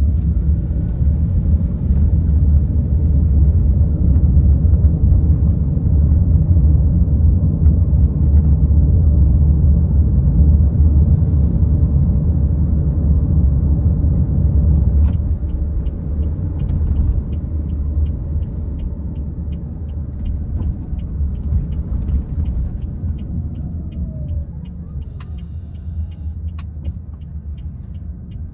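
Car driving, a steady low road and engine rumble that eases off in the second half. A regular ticking, about two a second, starts about halfway through.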